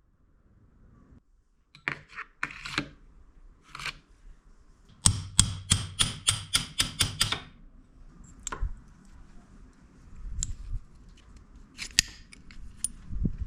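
Sharp clicks and taps of tools and small parts being worked by hand, scattered, with a quick run of about nine clicks about halfway through.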